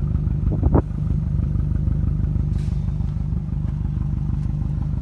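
Subaru EJ205 2.0-litre turbocharged flat-four engine running at idle with an even, rhythmic pulse, with a short, sharper burst a little under a second in.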